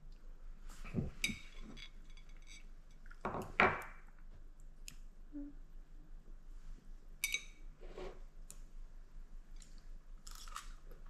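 Tableware clinking as food is picked up and dipped: several separate light clinks and taps of utensils against dishes, the loudest about three and a half seconds in.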